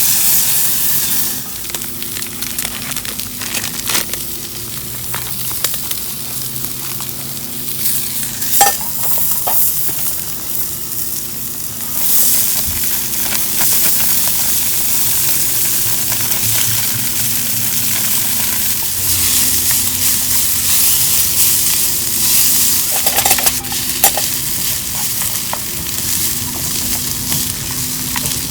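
Johnsonville sausages sizzling steadily over a very hot wood fire, with occasional sharp pops.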